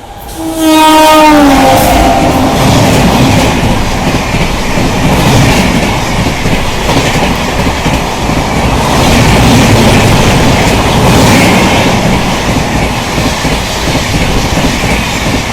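Express train horn blowing about half a second in, its pitch dropping as it goes by, then the train running past close at speed with steady wheel clatter over the rail joints.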